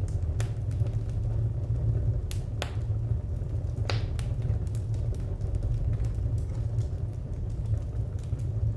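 Wood fire crackling: scattered sharp pops and snaps, a few louder ones about half a second, two and a half and four seconds in, over a steady low rumble of the flames.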